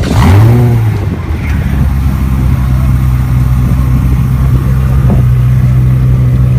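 Car engine catching with a brief rising flare of revs, then settling into a steady, loud idle.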